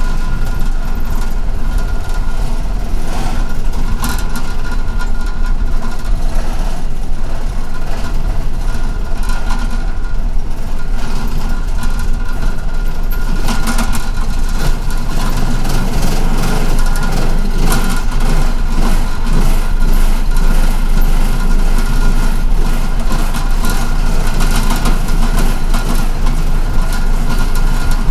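City bus engine running with steady low rumble and cabin noise, heard from inside the bus, with a few faint knocks and rattles.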